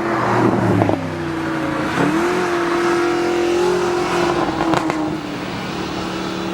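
Mercedes-Benz SLS AMG's 6.2-litre V8 revving hard in manual mode. The exhaust note climbs with engine speed and breaks sharply just after the start, again about two seconds in and near five seconds.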